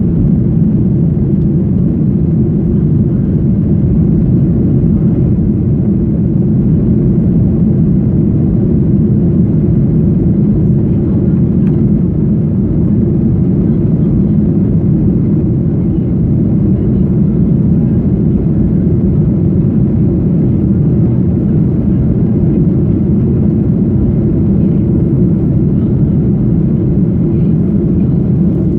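Boeing 737-800 cabin noise in climb, heard from a rear window seat: the steady low rumble of the CFM56-7B engines and the airflow past the fuselage, with no change in pitch or level.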